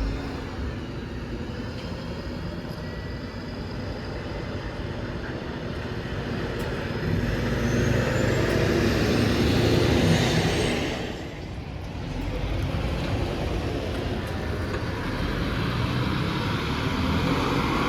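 A large road vehicle passing close in street traffic, growing louder to about ten seconds in and then falling away, with a faint high whine that rises and falls as it goes by; traffic noise then builds again.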